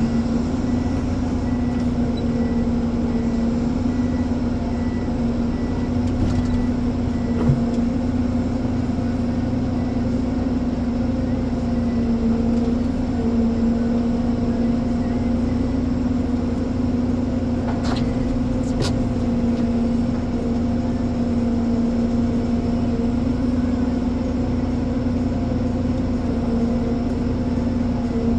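Ponsse Elephant forwarder's diesel engine running steadily at constant speed, with an even hum. A brief knock is heard about seven seconds in.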